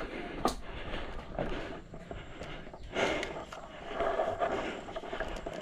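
Footsteps and rustling of a player moving on foot, with a few short sharp clicks, the clearest about half a second in.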